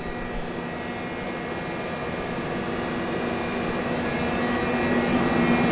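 Steady mechanical hum with a few held whining tones from the running spindle cooler and auxiliary units on the back of a vertical machining center, growing gradually louder.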